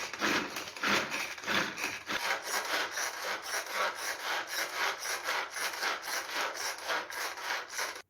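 Hand-operated onion chopper being worked, its blades chopping onion inside the closed box in a quick rhythm of rasping strokes, about three a second, until they stop suddenly near the end.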